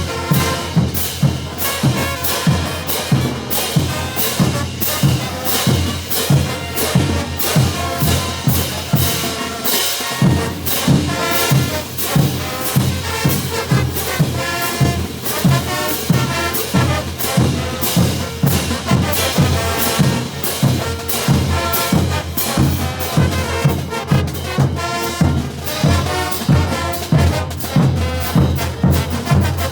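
A Bolivian brass band plays loudly: trumpets and other brass over bass drum and snare, keeping a steady beat of about two strokes a second.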